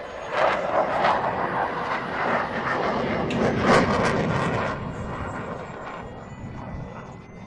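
Electric RC model airplane flying past: a loud rushing sound that builds up and then fades away after about five seconds.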